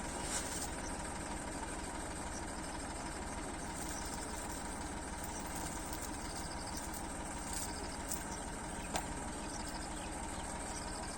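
Tractor engine running steadily, with a faint sharp click about nine seconds in.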